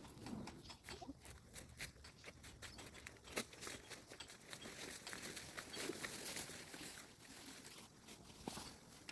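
Faint, irregular crackling and tapping, many small clicks at uneven intervals.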